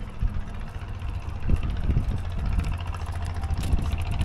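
Wind buffeting the microphone while riding a bicycle into a headwind: a dense, fluttering low rumble.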